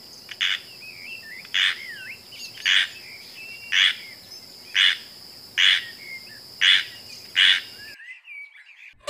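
Forest chorus: a short buzzy chirp repeats about once a second, eight times, over a steady high insect drone, with birds chirping in between.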